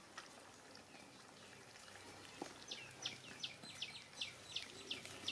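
A bird calling with a fast, even run of short high chirps, about three a second, each dropping in pitch. The run starts about halfway through and keeps going.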